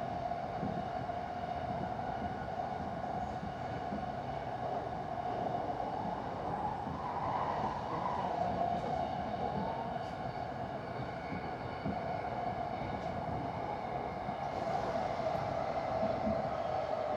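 Busan Metro Line 3 train running at speed, heard from inside the carriage: a steady rumble with a whine held at one pitch, and a brief rise in pitch about seven seconds in.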